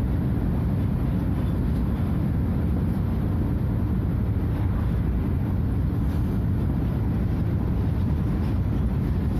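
Scania F250HB bus's DC09 five-cylinder diesel engine running steadily at an even level, a low, deep drone.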